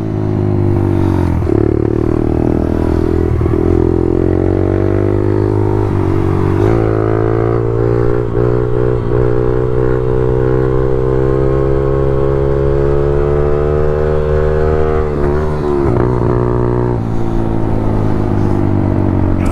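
Small single-cylinder pit bike engine revving and running under way, its pitch rising and falling several times, with a long slow climb in the middle and a drop near the end.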